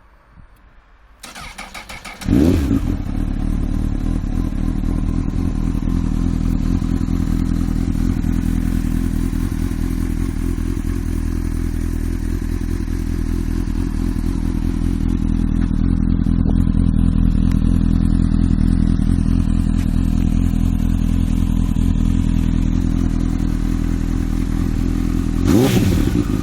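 Honda CBR1000RR Fireblade's inline-four being started: the starter cranks briefly about a second in, the engine catches with a quick rev, then settles into a steady idle through the exhaust. It is blipped once near the end.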